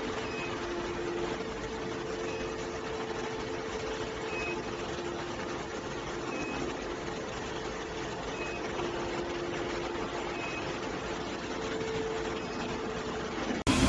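Steady machine hum with a short, high beep repeating about every two seconds.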